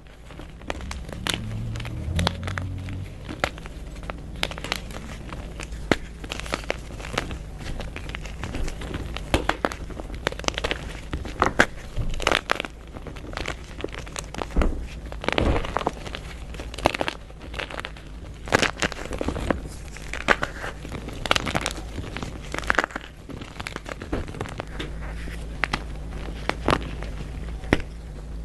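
Dyed gym chalk being crushed and crumbled by hand, giving a dense run of irregular crunches and crackles.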